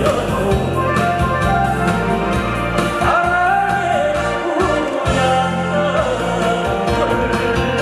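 A singer's voice holding and bending long notes over a backing track with a steady beat and bass. About three seconds in, a long note slides up.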